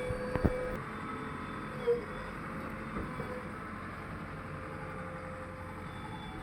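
Engine of heavy machinery running steadily, with a sharp click about half a second in.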